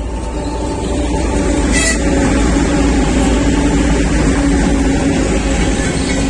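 Diesel locomotive with a freight train passing close by: a steady engine drone with rail and wheel noise, growing louder over the first second or so and then holding steady, with a brief sharp sound about two seconds in.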